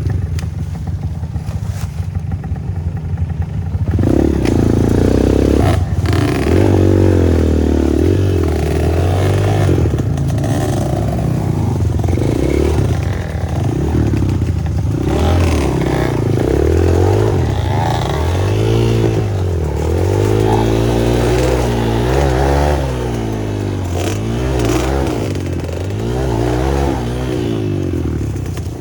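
Small two-stroke dirt bike engine being ridden hard, its revs rising and falling over and over as the rider works the throttle, quieter for the first few seconds and loud from about four seconds in.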